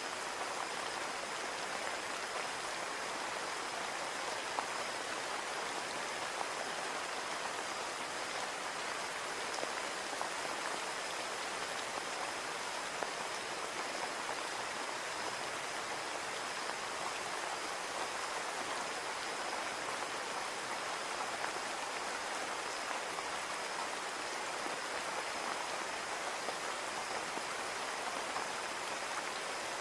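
Steady rain falling on a windowpane: a dense, even patter of drops with no change in strength.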